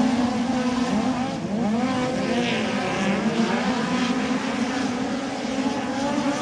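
Midget race car engine running hard, heard from on board. About a second in, its pitch dips and climbs back, then it holds steady again.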